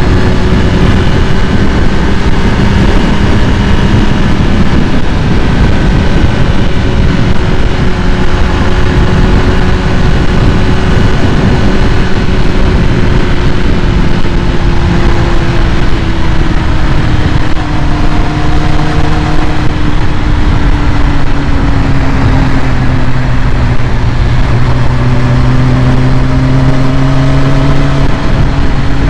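2001 Kawasaki ZX6R's carbureted inline-four engine idling loudly and steadily, its idle speed slowly sinking over the second half as it warms up after a cold start.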